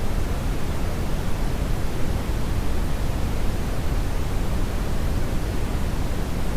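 Brown (Brownian) noise: a steady, even rushing hiss weighted heavily toward the low end, with no tones or events.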